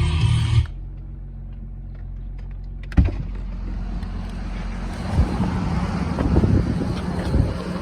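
Audi A7 3.0 TDI V6 diesel engine running, with irregular ticking knocks, the sign of a blown copper sealing washer under one injector. A sharp click comes about 3 s in, and the engine sound grows louder after it.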